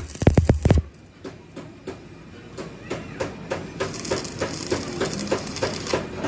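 Music stops under a second in. It gives way to a run of hammer blows on steel, about three a second. A high hiss joins for about two seconds near the end.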